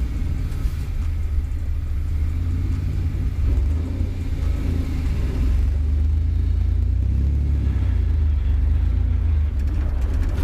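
Chevrolet 4.3-litre V6 from an S10 drivetrain running under way, with road noise: a steady low rumble with no clear rise or fall in pitch.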